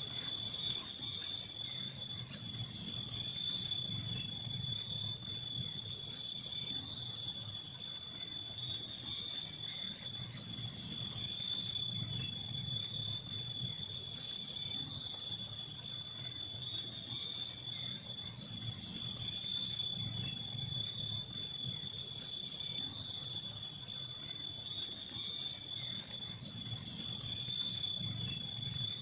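Insects droning in the forest: one continuous high-pitched tone, held steady, over a low rumble.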